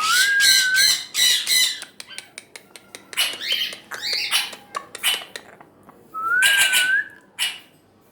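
African grey parrot calling: a clear rising whistle at the start, then harsh squawks and a run of sharp clicks, and the same rising whistle again about six seconds in.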